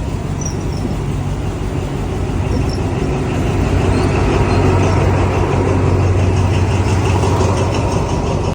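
Motor engine running steadily with a low hum, getting a little louder about halfway through.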